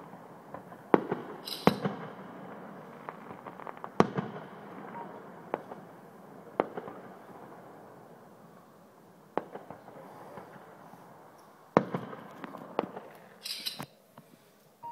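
Fireworks display: shells bursting in a string of sharp bangs, with crackling between them. The loudest bangs come about a second in, at about four seconds and near the end, and a brief high hiss sounds twice.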